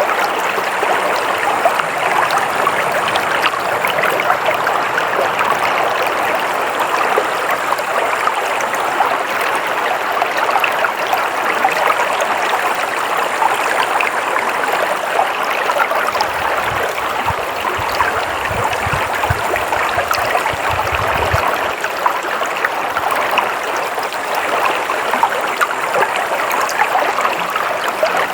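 Stream water flowing and trickling steadily. A faint low rumble comes in for a few seconds past the middle.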